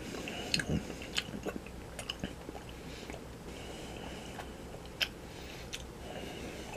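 A person chewing a very chewy black licorice candy that sticks to the teeth: irregular soft mouth clicks, several in the first couple of seconds and one sharper one about five seconds in.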